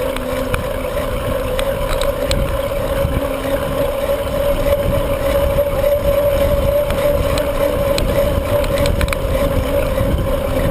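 Bicycle riding along: a steady hum with wind rumbling on the microphone and scattered light clicks.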